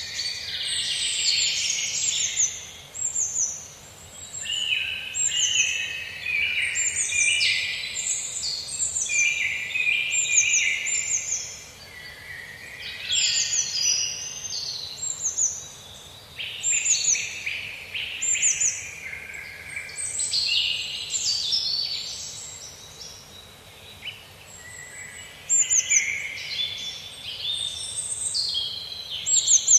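A chorus of songbirds chirping and singing over one another: many quick, high, falling chirps mixed with lower warbling phrases. It eases off briefly twice, near the middle and again a little before the end.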